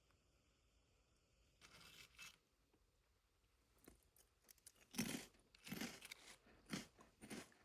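A few short rustling, scraping handling noises against near silence, the loudest about five seconds in.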